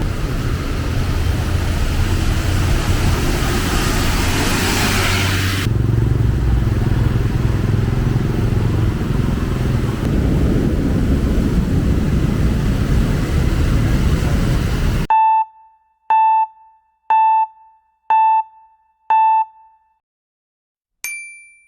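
Street traffic noise, a steady dense rumble with a hiss that stops about six seconds in. After about fifteen seconds the sound cuts out to silence. Then come five short electronic beeps about a second apart, and a single higher beep near the end, like a countdown tone.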